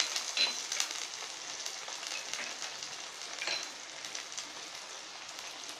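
Chopped onions frying in hot oil in a frying pan, a steady sizzle with crackling and a few sharp pops.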